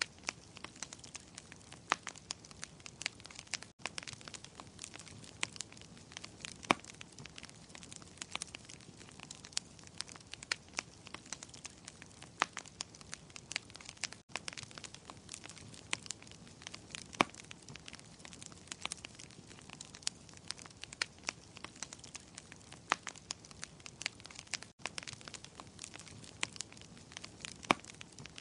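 Wood fire crackling in a fireplace: a steady stream of irregular sharp pops and snaps over a soft hiss of flame. The sound drops out very briefly three times, about ten seconds apart.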